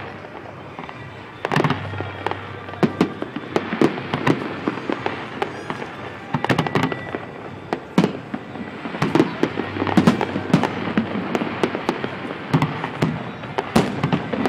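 Many fireworks and firecrackers going off at once: a constant run of bangs and crackles, with a louder burst starting about one and a half seconds in.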